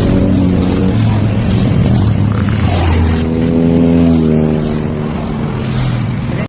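Motorcycle engine running loudly, its pitch dropping slightly about a second in and climbing again with a rev around three to four seconds in.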